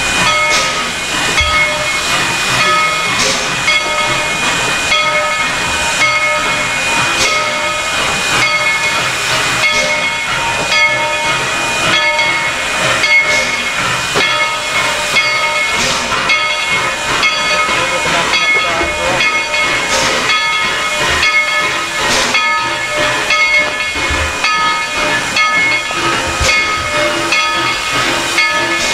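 Steam locomotive hissing loudly and steadily, with a regular pulse about once a second.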